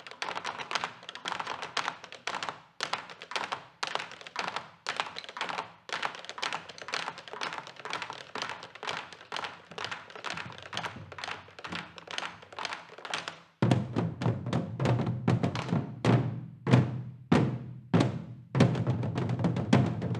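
Korean traditional percussion playing a fast run of sharp strikes, about three to four a second. About two thirds of the way through, a deep drum comes in and the playing grows louder.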